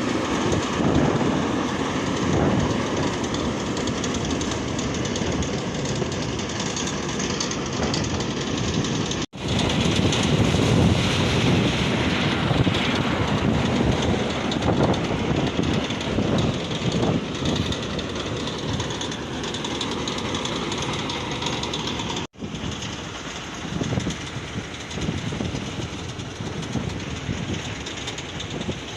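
Strong wind blowing over the microphone, a rough, fluctuating noise that drops out abruptly twice.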